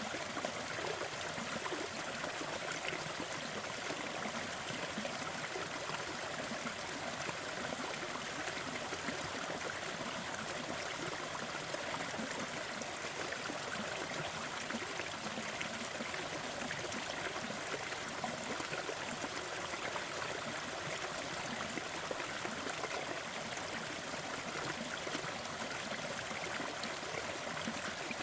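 Waterfall: water falling and splashing in a steady, unbroken rush, more hiss than rumble, with no change in level.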